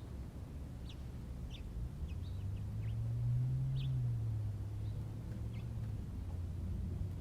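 Scattered short bird chirps over a low engine hum that swells and rises slightly in pitch about halfway through, then eases back down.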